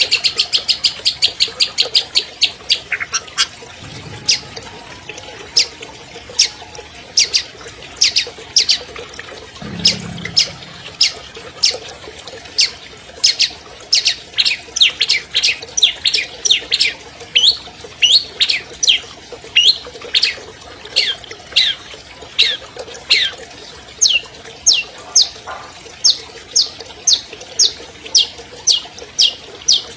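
Long-tailed shrike (cendet) singing a long run of sharp, high, downward-sweeping notes. The notes come very fast at first, then slow to about two or three a second.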